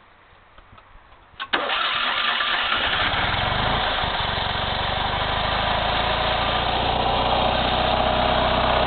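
Classic Fiat 500's air-cooled two-cylinder engine starting up. It catches suddenly about a second and a half in and settles into steady running at idle.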